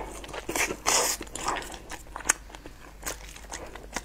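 Close-miked eating sounds: a person chewing a mouthful of food, with wet, crackly bites and smacks. The loudest is a hissy burst about a second in, followed by scattered short clicks.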